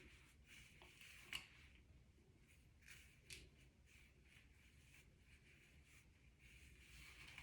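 Near silence: room tone with a few faint light clicks and rustles, the sharpest about a second and a half in.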